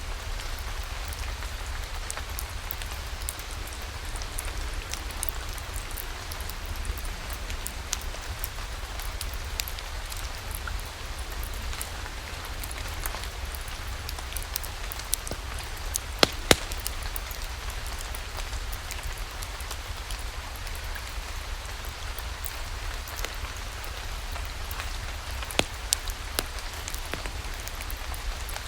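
Steady rain falling: a constant even hiss with a low rumble underneath, dotted with sharp clicks and crackles. A pair of loud pops comes about sixteen seconds in, and another near the end.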